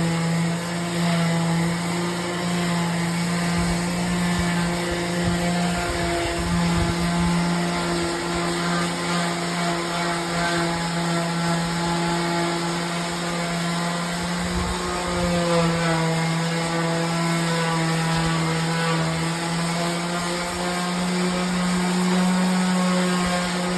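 Electric palm sander running continuously while sanding log walls, a steady motor hum whose pitch sags slightly now and then as it is pressed into the wood.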